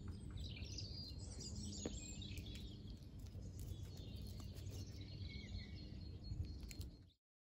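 Small birds chirping and twittering outdoors over a low steady rumble; the ambience cuts off abruptly shortly before the end.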